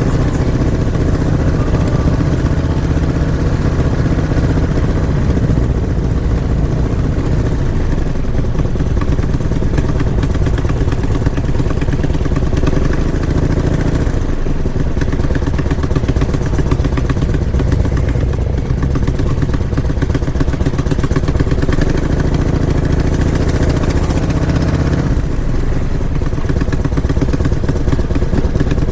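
Motorcycle engine running steadily and loud, its pitch shifting a little about halfway through and again near the end.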